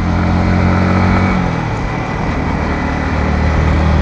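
Yamaha MT-15 V2's 155 cc single-cylinder engine through its stock exhaust, running at low revs. Its note falls about a second and a half in, then runs steady and low.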